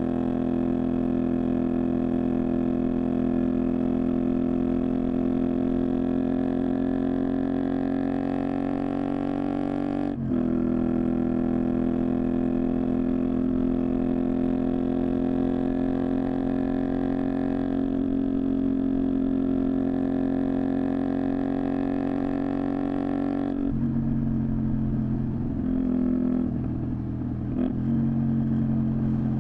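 Honda VTR250's V-twin engine heard through a Moriwaki aftermarket exhaust while riding. The engine note climbs slowly for about ten seconds, breaks briefly at a gear change, then holds steady. About three-quarters of the way through it drops to a lower, less even note as the throttle is rolled off.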